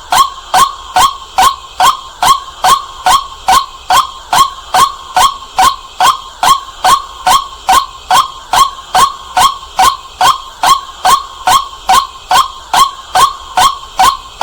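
White-breasted waterhen calling, a loud, monotonous repeated note about two and a half times a second, each call dipping slightly in pitch.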